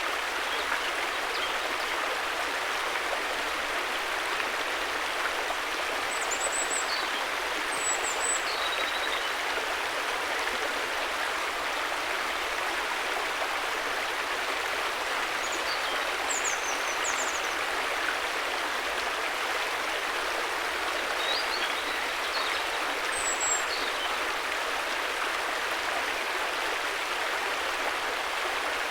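River water flowing in a steady, even rush. Faint short high chirps, likely small birds, come a few times, around six to eight seconds in, at about sixteen seconds, and again around twenty-one to twenty-three seconds.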